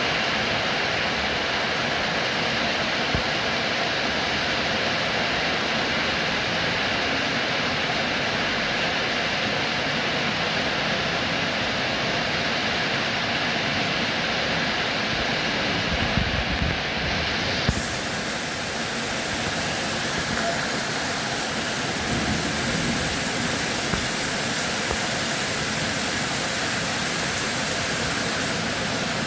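Steady rain, an even hiss of falling water without a break. About two-thirds of the way through it turns brighter and hissier, as if the recording shifts to a different stretch of rain.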